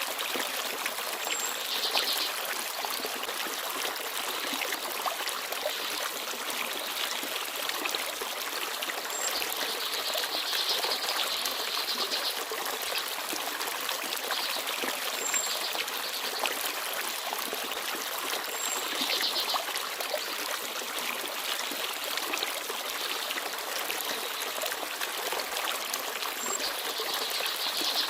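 Small forest stream babbling and trickling steadily. Brief, faint, high bird chirps sound every few seconds.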